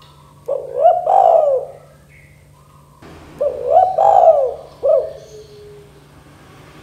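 Spotted dove (tekukur) cooing: two phrases, each a quick run of rising-and-falling coos, the second ending with a short extra note.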